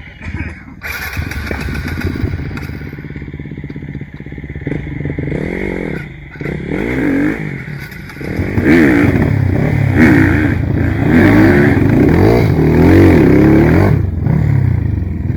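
Off-road trail motorcycle engine revved up and down over and over in quick swells, getting louder about halfway through.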